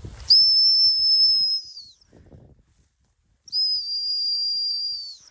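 Gun-dog training whistle blown in two long, steady, high blasts, each about a second and a half, with a short gap between. These are reminder whistles to keep the dog steady on a flushed bird.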